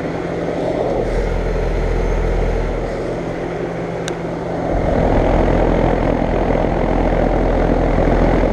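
2012 American Standard 4-ton central air conditioner's outdoor unit running: the condenser fan's steady whoosh over the hum of its Alliance scroll compressor. It grows louder a little past halfway.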